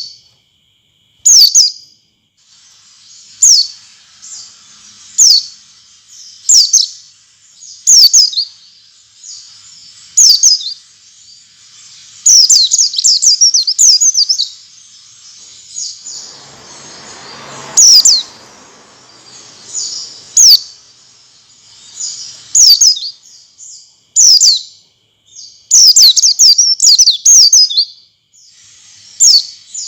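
White-eye (pleci) calling: short, high, downward-slurred chirps every second or two, with quicker chattering runs about twelve seconds and twenty-six seconds in. This is a lure call of the kind played to prompt caged white-eyes to sing.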